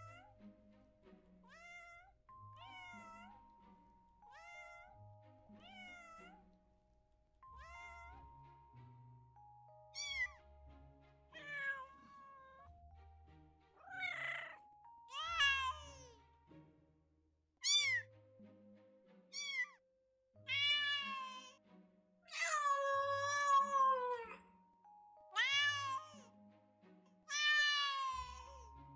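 Domestic cats meowing again and again, faint at first and louder from about ten seconds in, with one long drawn-out meow a little past the middle. Background music with held tones and a low bass line plays underneath.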